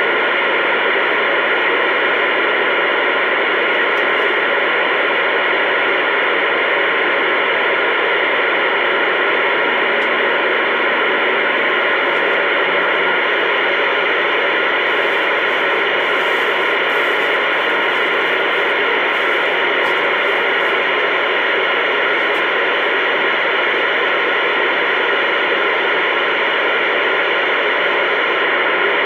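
CB radio receiver hissing with its squelch open: steady static between transmissions on an unkeyed channel, heard through the radio's narrow-band speaker.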